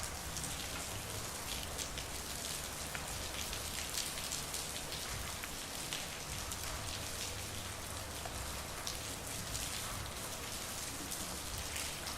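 Steady rain falling on a street, a constant hiss dotted with many distinct close drops.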